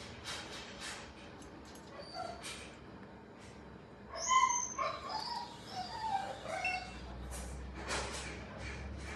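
An animal gives one sharp, high yelp about four seconds in, then a few shorter, softer cries, over scattered light clicks.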